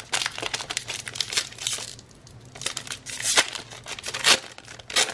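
Plastic trading-card pack wrapper crinkling and tearing as it is opened, with irregular crackles and a couple of sharper, louder crackles near the middle.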